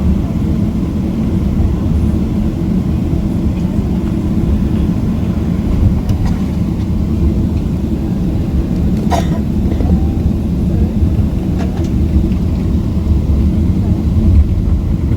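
Boeing 777-300ER passenger cabin noise: a steady low rumble of the GE90 engines and airflow, with a few faint clicks partway through.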